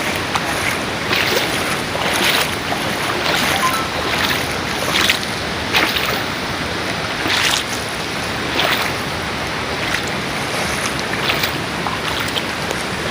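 Steady rushing water, with brief louder splashy surges coming irregularly about once a second.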